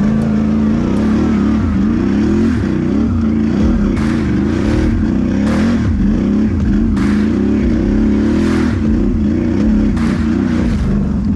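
Can-Am Renegade 1000 XMR ATV's V-twin engine revving up and down repeatedly as it is ridden, its pitch rising and falling with the throttle. Several short bursts of hiss come through on top of it.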